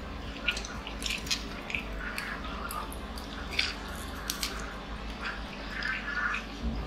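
Chewing and wet mouth sounds of people eating fried chicken nuggets, with irregular small clicks and crinkles as sauce packets are torn and handled.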